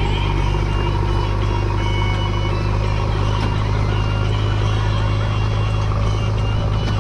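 Heavy diesel engine of earth-moving and tractor machinery running steadily at a constant speed, with short, high beeping tones dotted through it.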